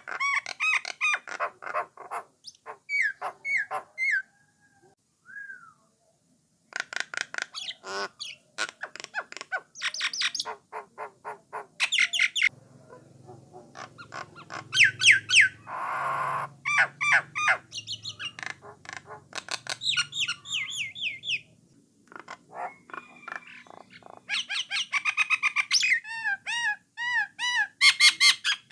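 Jalak nias (brown myna) singing: rapid runs of sharp whistled notes, harsh chattering and squawks in bursts, with two short pauses, the first about four seconds in and the second near twenty-one seconds.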